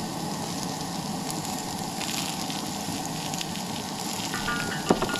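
Vegetables sizzling steadily as they stir-fry in a pan, with a sharp clink near the end.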